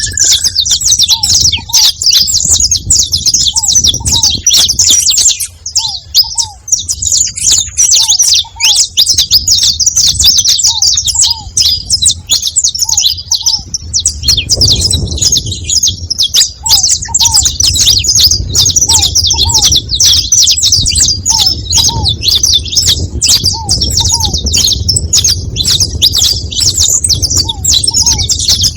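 A group of saffron finches chirping and chattering together without pause, in dense high-pitched notes. Underneath, a pair of short lower notes repeats about every two seconds.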